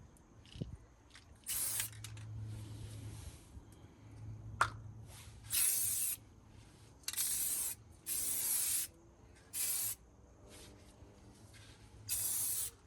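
Aerosol spray paint can spraying in about six short bursts, each well under a second, with a single sharp click near the middle.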